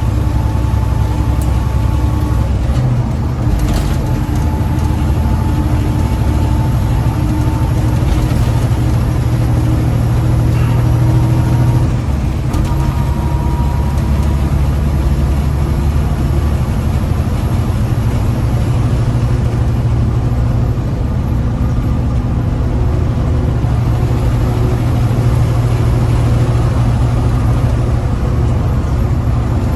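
Big-rig truck's diesel engine running steadily at cruising load with road noise, heard from inside the cab while driving on the highway.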